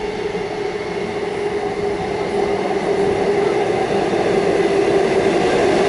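Comeng electric suburban train running into the platform, growing steadily louder, with a steady droning tone over the rumble of the cars.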